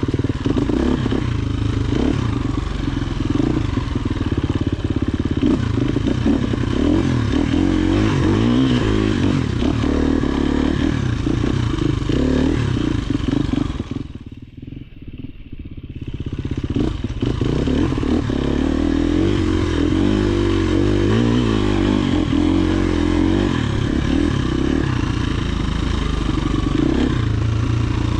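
Dirt bike engine running on a trail ride, its pitch rising and falling with the throttle, with clattering from the bike. About halfway through the engine sound drops away for about two seconds, then picks up again.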